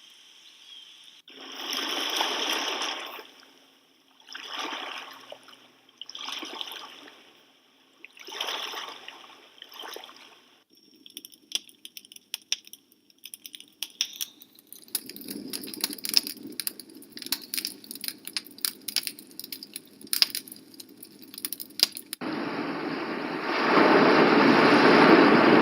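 Recorded relaxing nature sounds from a white noise app, played one after another. First come swells of rushing noise about every two seconds, then a stretch of crackling clicks. A steadier noise with clicks follows, and a louder continuous rushing sound starts about 22 seconds in.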